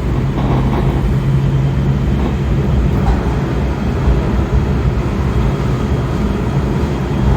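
Interior running noise of a Kawasaki 7000-series Metrorail subway car at speed: a steady low rumble of wheels on rail with a steady low hum over it.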